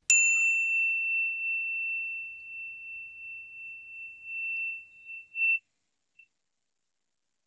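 A high bell-like chime struck once, ringing on one clear note and fading away over about five seconds.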